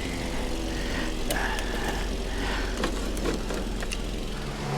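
An engine running steadily at a low, even pitch, with a few brief sharp sounds over it.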